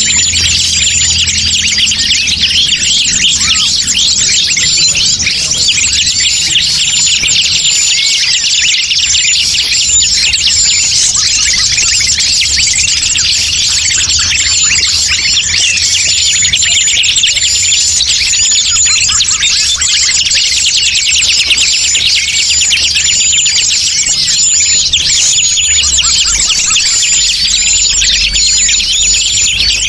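Forest-bird lure (pikat) recording: a dense chorus of many small birds chirping and twittering rapidly. A short, high note repeats steadily over the chorus.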